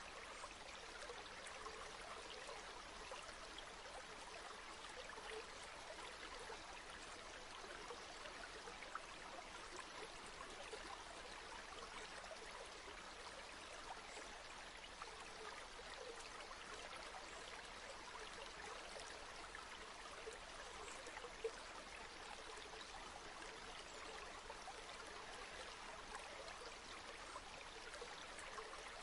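Steady rush of a flowing river, an even wash of water noise with small trickling flickers and no change in level.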